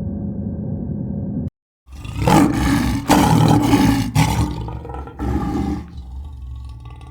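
Elephant giving loud calls, a long one and then a shorter one about a second later, after a steady low background cuts off.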